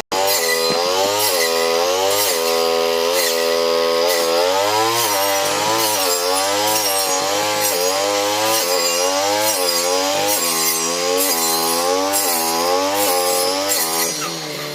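Grass-cutting machine's small engine running hard while its blade chops patchouli stalks, the engine note sagging and picking up again about once a second as each bite of plant loads it. It eases off near the end.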